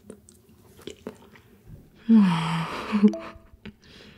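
Soft wet chewing of a mouthful of aged mackerel nigiri, with small clicks. About two seconds in, a short hummed 'mmm' of pleasure, falling in pitch.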